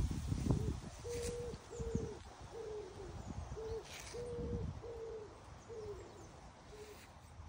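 A bird calling outdoors with a run of short, even hooting coos, about two a second, some sliding slightly downward at the end and growing fainter toward the end. Low bumps and rumble from the handheld phone, mostly near the start and about four seconds in.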